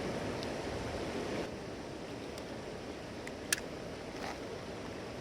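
Steady rushing noise of a river, easing slightly about a second and a half in, with one sharp click about three and a half seconds in and a few fainter ticks.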